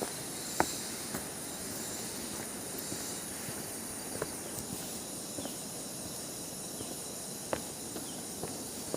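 Footsteps on a forest trail, irregular sharp steps every second or so, over a steady high drone of insects.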